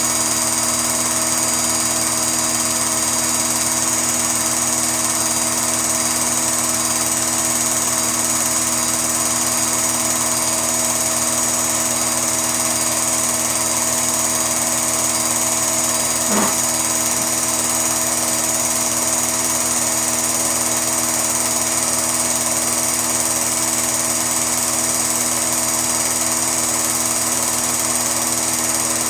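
A steady motor whir with several fixed tones, unchanging throughout, and one brief click about 16 seconds in.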